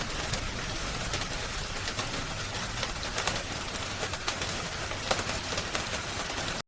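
Steady rain hiss mixed with a wood fire crackling in scattered sharp pops. The sound cuts out for an instant at the very end.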